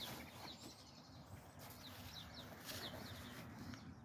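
Faint birdsong: short, falling chirps repeated every second or so over a quiet outdoor background.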